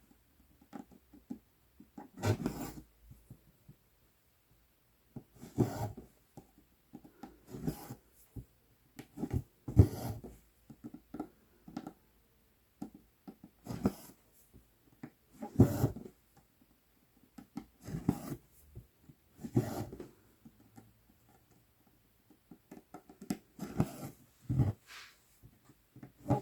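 Cross-stitch needle and floss drawn through 11-count Aida cloth, stitch after stitch: a short rasping pull about every two seconds, with faint small taps and rustles in between.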